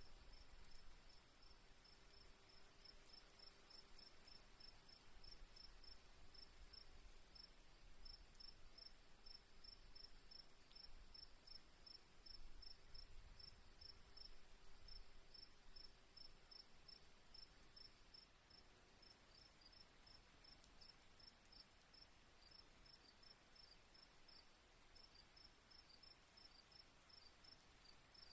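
Faint crickets at night: one steady high trill, plus a second cricket chirping in regular pulses about four times a second. The steady trill breaks off for a moment a little past halfway.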